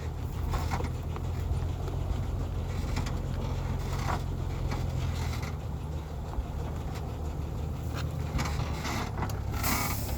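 Heavy truck engine running steadily at a low pitch, with occasional brief scraping and knocking noises, the loudest near the end.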